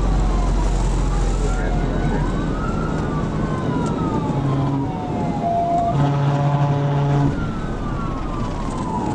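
Police cruiser siren wailing in slow rising and falling sweeps over steady road noise during a high-speed pursuit. A steady, pitched tone cuts in briefly a little past the middle.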